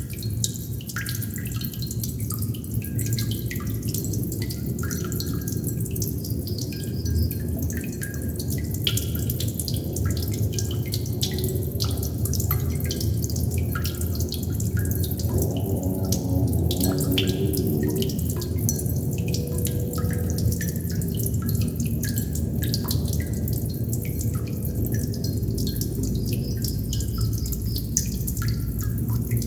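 Water droplets dripping: many irregular drops a second, over a steady low rush of water.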